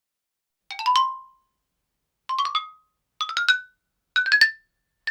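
Xylophone played in five quick rising runs of four or five struck notes each. Each run starts a step higher than the one before, so the phrases climb upward.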